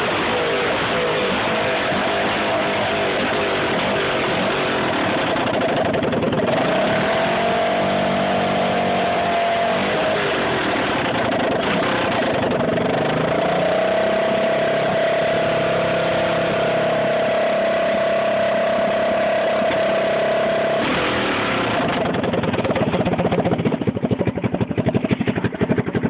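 1984 Honda TRX200 ATV's single-cylinder four-stroke engine running through a straight-pipe exhaust. The revs rise and fall twice, hold high and steady for several seconds, then drop to a choppy, uneven idle near the end.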